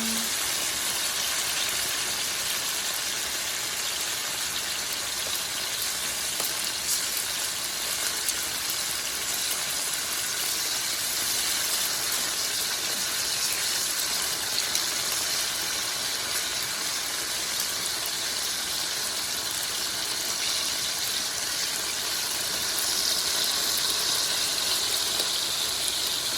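Chicken pieces sizzling in hot oil in a frying pan, a steady crackling hiss that grows louder a few seconds before the end.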